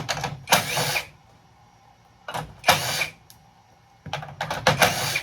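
Pieces of scrap metal clattering and clinking as they are handled, in three short bursts.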